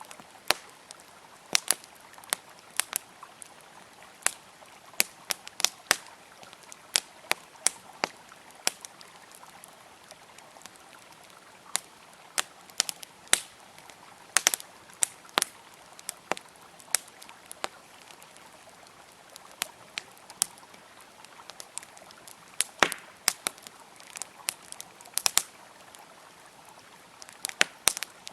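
Wood campfire crackling with sharp, irregular pops, over the steady rush of a flowing river.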